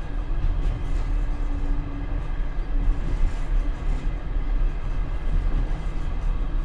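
Passenger train's wheels running on the rails, heard from inside the rear vestibule of the tail carriage: a steady rumble with a few light knocks.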